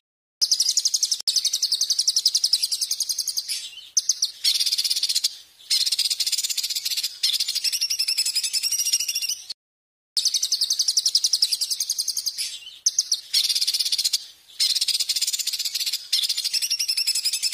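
A small songbird's loud, fast, high-pitched trills in long rattling phrases, broken by short pauses and one sudden cut to silence about ten seconds in.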